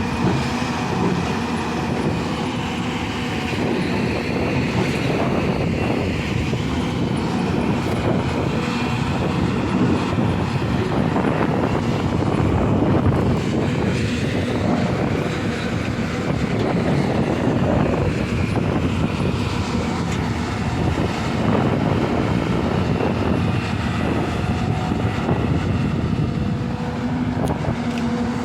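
Hyundai excavator running under load: a steady diesel rumble with a continuous metallic clatter, as of steel tracks clanking.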